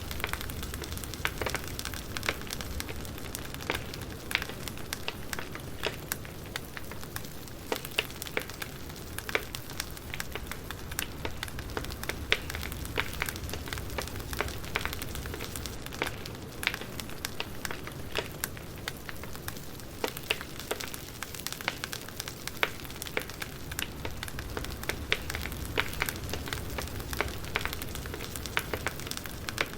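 Wood fire burning, with irregular crackles and sharp pops over a soft steady hiss.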